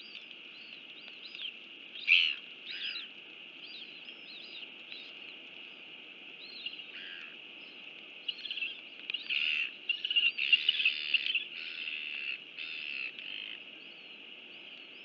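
Birds calling in a quick series of short chirps over a steady hiss. There are louder, rasping bursts about two seconds in and again in a cluster from about nine to thirteen seconds.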